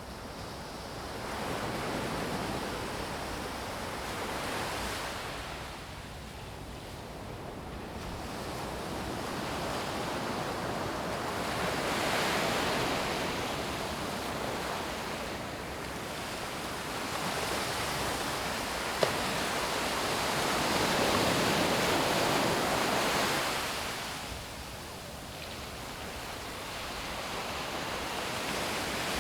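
Sea waves breaking and washing up the beach, the surf swelling and falling away again every several seconds. There is a single short click about two-thirds of the way through.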